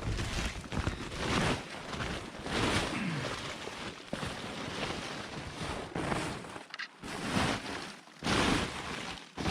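A stiff, frozen tarp being pulled back off a firewood pile, crinkling and crunching in irregular surges.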